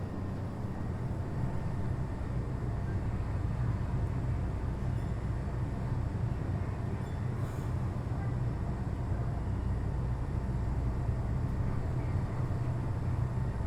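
Kitakyushu Monorail Series 1000 car standing at the platform: a steady low hum from its onboard equipment, with faint steady high tones above it.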